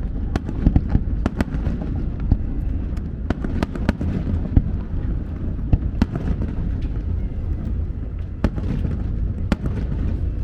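Aerial fireworks bursting: many sharp bangs and crackles at irregular intervals over a continuous low rumble.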